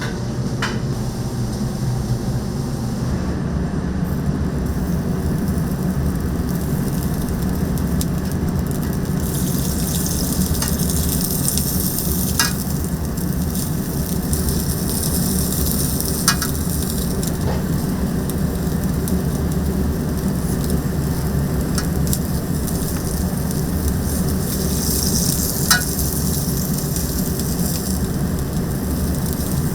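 Chicken sizzling as it cooks, a steady hiss over a constant low hum, swelling louder twice, with a few sharp clicks of utensils.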